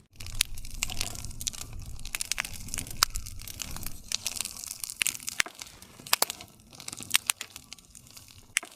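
Wood campfire crackling: irregular sharp pops and snaps of burning wood over a soft low hiss of flame, with a few louder pops spread through.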